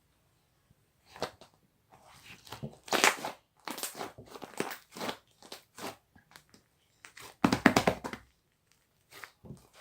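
Pink slime being squeezed and poked by hand, giving irregular bursts of sticky crackling and popping clicks, with the loudest flurries about three seconds in and again near eight seconds.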